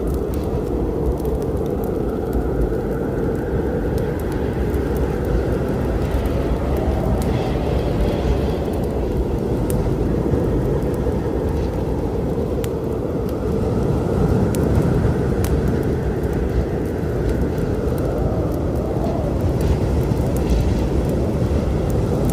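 A storm's steady low rumble, with sparse sharp crackles from a wood fire throughout.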